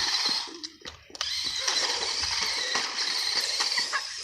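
Remote-control toy car's motor and gears whining with a rattle as it drives. It cuts out about half a second in and picks up again just after a second.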